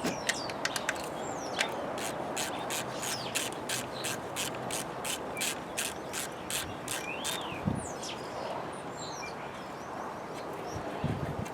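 A ratchet wrench clicking in a steady run, about four clicks a second for several seconds, with birds chirping in the background.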